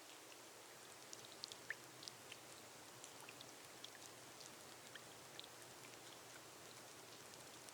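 Gentle rain on a glass roof: a steady faint hiss with individual drops ticking irregularly, several a second.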